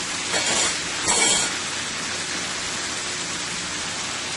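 Chicken, broccoli and cabbage stir-fry sizzling steadily in a hot pan as the vegetables go in, with two brief louder swishes about half a second and a second in.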